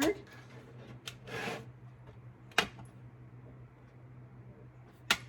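Craft pieces being handled on a work surface: a brief scrape about a second and a half in and a few sharp clicks or taps, over a steady low hum.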